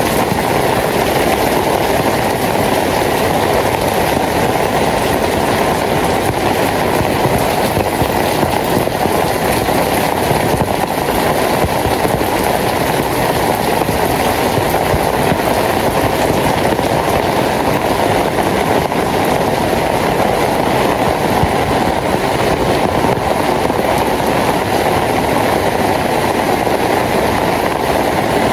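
Steady rain falling, an even hiss without breaks or distinct drops standing out.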